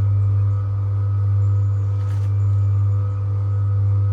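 A steady low hum with fainter higher tones above it, unchanging throughout.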